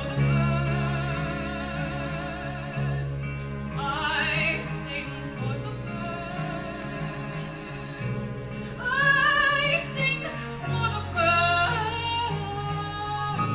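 A woman singing a musical-theatre song in a big, operatic style with wide vibrato, holding long notes, sweeping up about four seconds in and climbing to high sustained notes near the end. Accompanied by a small band of piano, strings, bass and drums.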